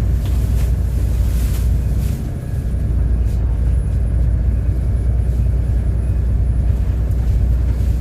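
City bus engine running with a steady low rumble while the bus drives, dipping briefly a little over two seconds in.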